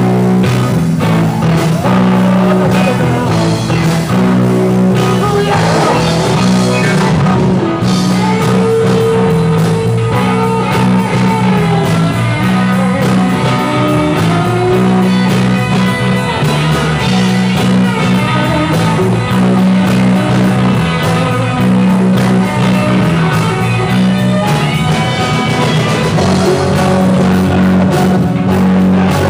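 Rock-and-roll band playing an instrumental stretch of a song, with guitar over a steady, pulsing bass line.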